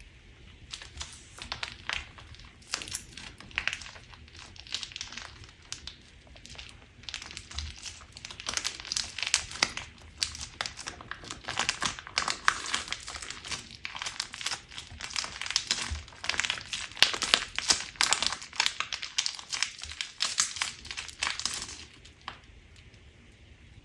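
Crunch slime being squeezed and pressed by hand: a dense run of crackling, crinkling clicks that stops about two seconds before the end.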